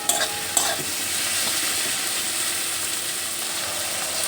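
Onions, tomatoes and freshly added ground spices frying and sizzling in oil in a pan, a steady hiss, with a few short clicks in the first second.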